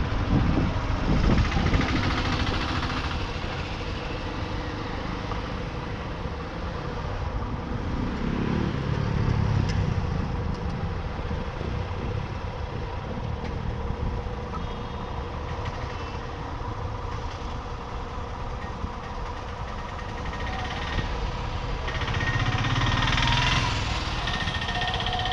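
Town street traffic heard from a motorbike on the move: a steady mix of engines and road noise, with heavier vehicle rumble swelling up about a third of the way in and again near the end.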